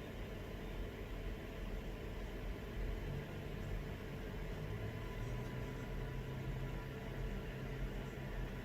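Steady low mechanical hum with a droning tone that grows stronger about three seconds in.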